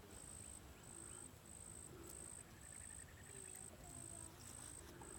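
Insects chirping faintly in a high-pitched, evenly repeated pulse, about two chirps a second.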